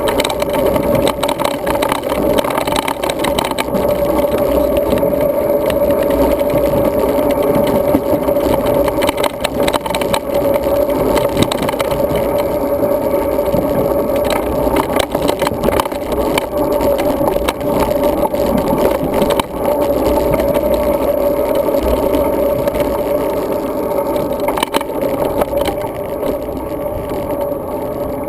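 Riding noise from a road bike picked up by a GoPro Hero 2 riding along with it: a steady rumble with constant small rattles and knocks as it rolls over the ground.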